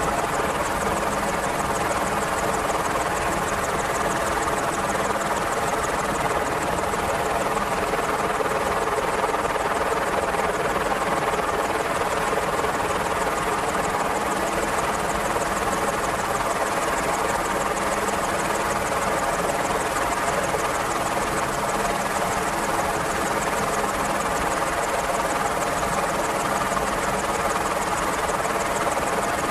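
Merlin helicopter running steadily: a continuous rotor and turbine drone made of many steady tones over a hiss, holding the same level throughout.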